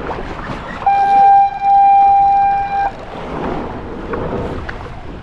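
A loud horn sounding one steady note for about two seconds, with a brief dip partway through, over wind and water noise.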